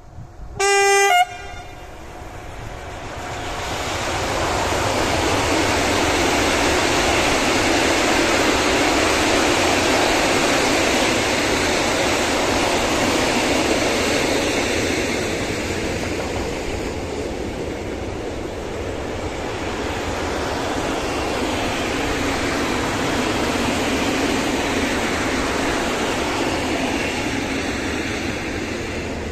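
A locomotive horn gives one short blast about a second in, then a long freight train of tank wagons rolls past close by, the steady noise of wheels running on rails building over the first few seconds and holding.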